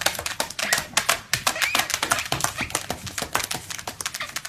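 A puppy's claws clicking and tapping quickly and unevenly on a hard floor, several clicks a second, with a short high whine not quite two seconds in.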